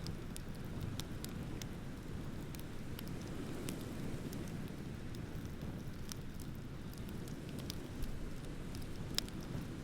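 Wood bonfire crackling with scattered sharp pops, two louder ones near the end, over a steady low rush of ocean waves.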